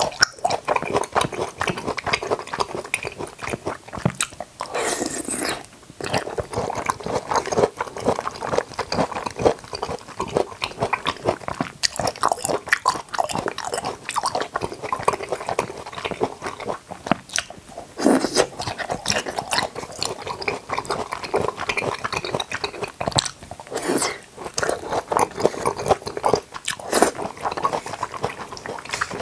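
Close-miked chewing and biting of jackfruit and toddy palm fruit: a continuous stream of crisp, crackly mouth sounds, with louder bites every few seconds.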